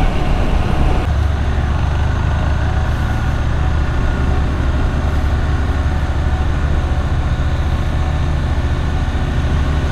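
KTM 390 Adventure's single-cylinder engine running steadily with the bike under way, with road noise. The engine note changes about a second in.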